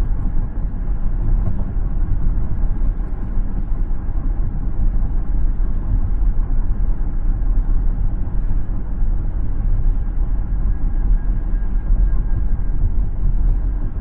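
Steady low road rumble of a car driving: tyre and engine noise with no distinct events.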